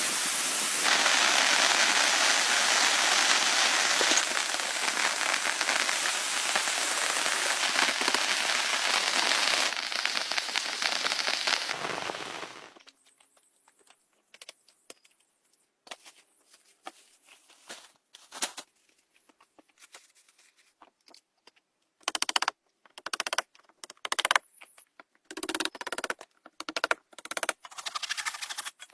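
Heavy rain falling steadily for about twelve seconds, then cut off suddenly. After that there are sporadic faint clicks and, near the end, a run of short, loud, noisy bursts.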